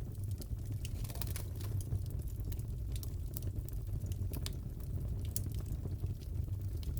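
Wood fire crackling in a fireplace: irregular small pops and snaps over a steady low rumble of the burning fire.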